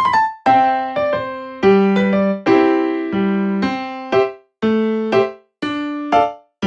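Background music: a light piano or electric-piano tune of separately struck notes and chords in a bouncing rhythm.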